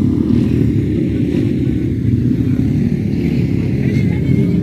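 Motocross dirt bike engines running, a steady, loud low rumble, with a faint rising rev about four seconds in.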